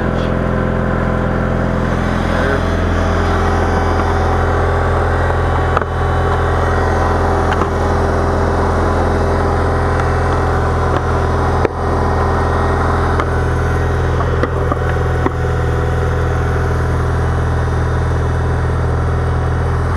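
Engine of a snow-plowing vehicle running at a steady speed, with a couple of brief knocks about 6 and 12 seconds in.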